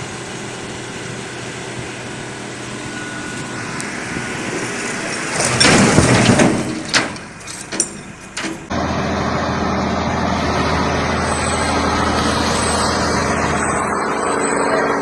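A heavy truck's engine running, with a loud burst of noise and several sharp knocks a little before halfway. The sound then changes abruptly to another truck engine running steadily.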